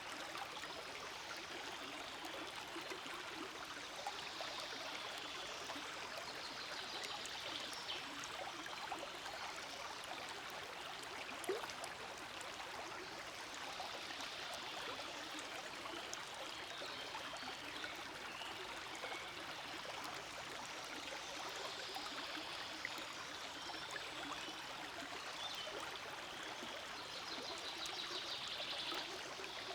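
Forest stream flowing steadily over stones, a continuous babble and trickle of running water.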